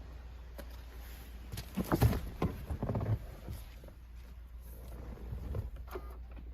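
Irregular knocks and clunks, a cluster of them about two to three seconds in and a few more near the end, over a low steady hum.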